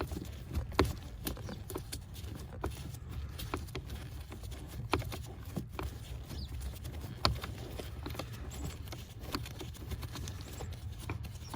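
Scattered light clicks and knocks of hand-tool work on a heater blower motor's mounting, over a low steady rumble.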